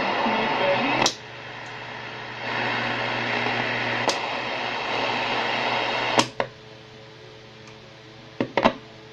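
Hallicrafters S-20R shortwave receiver: a station's audio cuts off with a sharp click about a second in, giving way to receiver hiss and static that swells and holds. Further sharp clicks of the band selector switch change the sound, and after about six seconds only a faint hiss with a steady low hum remains, with a few more clicks near the end.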